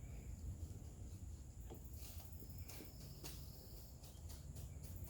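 Faint, steady high-pitched insect chirring over a low rumble, with a few faint clicks around the middle.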